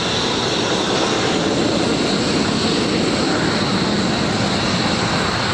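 Military aircraft engines running steadily during taxiing, a continuous rushing noise with a high steady whine.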